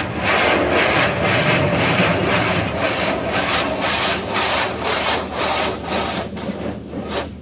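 Automatic car wash spray hitting the car body, heard from inside the car as a loud pulsing wash of noise, about two to three beats a second. It cuts off suddenly near the end.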